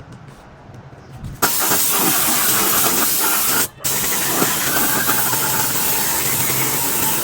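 Loud steady hiss of a compressed-air tool, starting suddenly about a second and a half in, with a short break in the middle.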